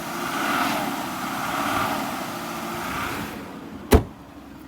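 Aston Martin DB9's V12 engine revved twice in quick swells, then dropping away, followed by a single sharp knock near the end.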